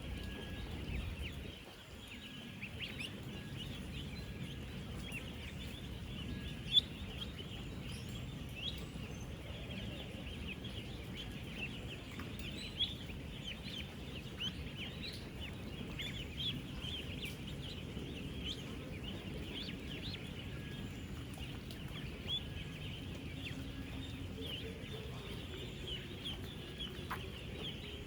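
A dense, unbroken chorus of thousands of ten-day-old ducklings peeping together over a low background rumble. A sharp click about seven seconds in, and a smaller one about thirteen seconds in.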